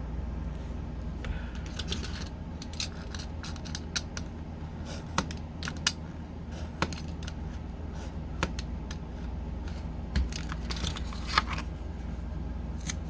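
Thin wooden popsicle sticks being cut: a scattered series of sharp clicks and snaps, about ten in all, over a steady low hum.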